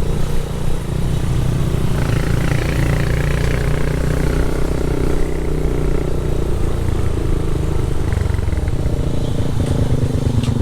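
Motorcycle engine running steadily while riding, its note shifting near the end.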